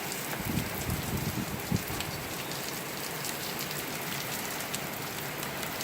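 Heavy tropical rain pouring down steadily, a dense even hiss. A few brief low rumbles come in the first two seconds.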